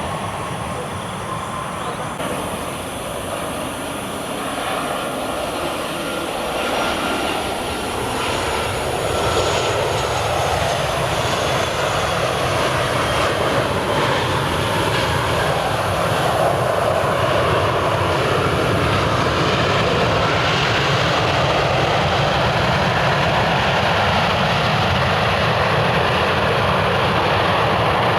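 Jet engines of a Boeing 737-800 airliner on landing approach: a steady rushing roar that builds over the first half and then holds loud, with a faint high whine partway through.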